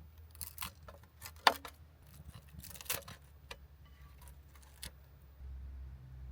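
A few scattered clicks and light knocks, the sharpest about one and a half seconds in, then a low steady rumble starting near the end.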